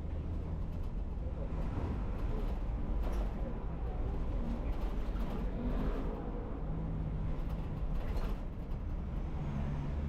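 City bus engine running with a steady low drone, heard from inside the cabin, with a few short clatters and rattles over the road noise.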